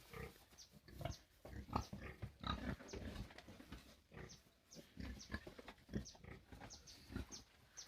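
Pigs grunting faintly in many short, irregular sounds.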